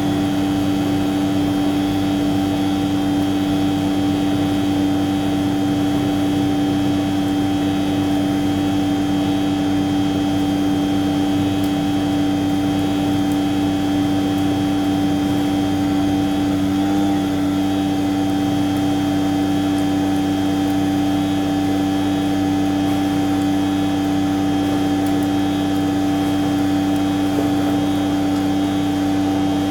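Heavy truck's engine and running machinery holding a steady speed, a constant loud drone with a steady whine over it.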